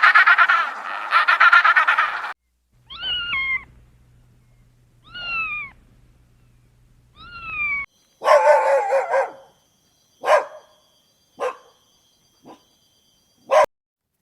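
A string of animal calls: a frog's fast pulsed croaking, then a domestic cat meowing three times, each meow falling in pitch, then a dog barking several times.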